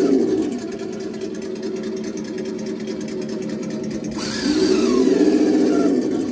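Redcat Gen8 V2 Scout II RC crawler's electric motor and geared drivetrain whining under throttle on a steep ramp. The whine eases off after the start, a brief clatter comes about four seconds in, and then the motor whines up and down again.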